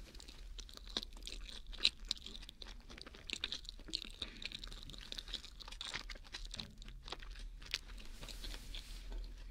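Close-up chewing of a mac and cheese sandwich, with a dense run of small wet clicks and soft crunches from the mouth.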